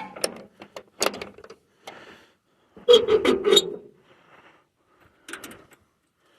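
Scattered clunks and knocks, the loudest cluster about three seconds in and a smaller one about five seconds in, from handling the early-1950s Ford 8N tractor before restarting it; the engine is not yet running.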